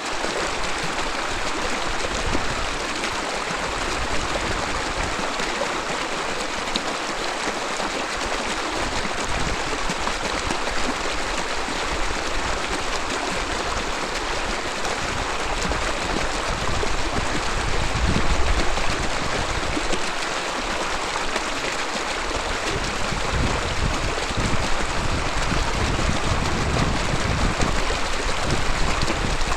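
Mountain river babbling over rocks: a steady rush of flowing water. A deeper low rumble swells about eighteen seconds in and again over the last several seconds.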